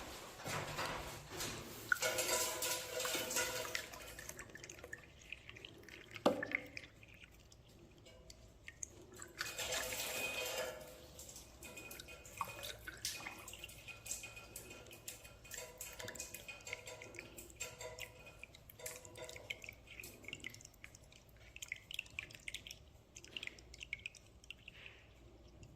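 Water splashing into a system air conditioner's condensate drain, louder in the first few seconds and again about ten seconds in, then dripping in small scattered drops. This is a gravity drainage test, checking that the drain empties without the drain pump.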